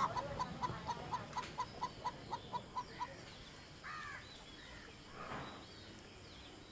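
Chickens clucking: a quick run of a dozen or so short, even clucks, about four a second, over the first three seconds, then two longer calls about a second apart.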